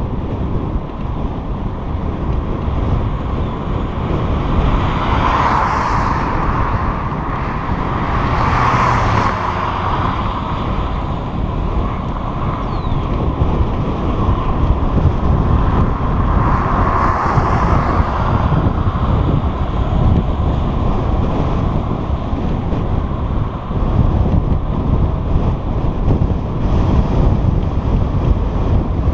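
Wind buffeting the microphone of a moving bicycle rider: a steady low rumble, with three brief swells of hiss about five, nine and seventeen seconds in.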